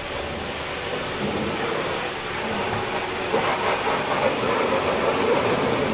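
Pressure washer spraying water onto a car: a steady hiss.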